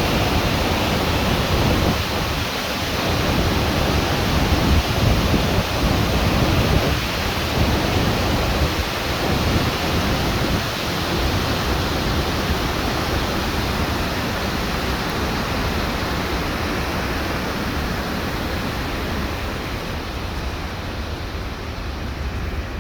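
Wind blowing outdoors and buffeting the microphone: a steady rushing noise with gusty low rumbles through roughly the first half, easing slightly toward the end.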